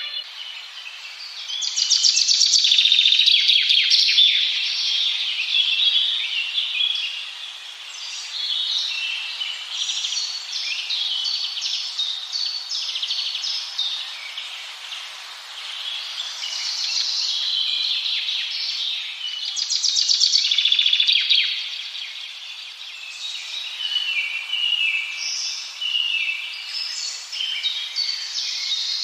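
Many birds chirping and singing at once, a dense chorus of short, high repeated calls that swells and eases in waves.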